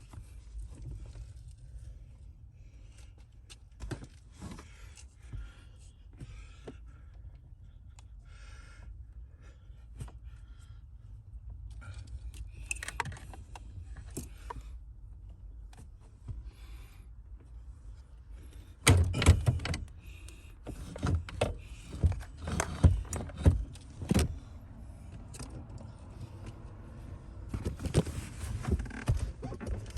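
Clicks, metal clinks and knocks from handling and fitting a steering wheel back onto its column. Sparse and light at first, then a run of loud knocks and rattles in the second half.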